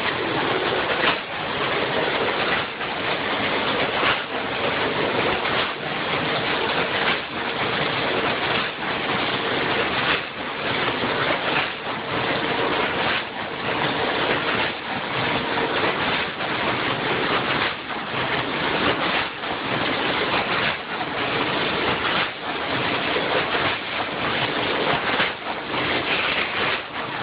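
Vertical form-fill-seal snack packaging machine with multihead weigher running, filling pouches with corn bugles: a steady dense noise with a regular beat about every second and a half.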